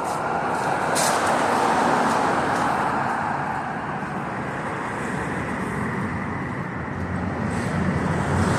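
Steady road traffic noise, swelling slightly about a second in and again near the end.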